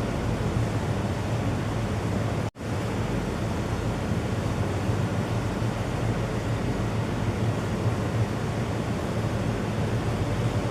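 A steady rushing noise with a strong low rumble, which drops out for an instant about two and a half seconds in.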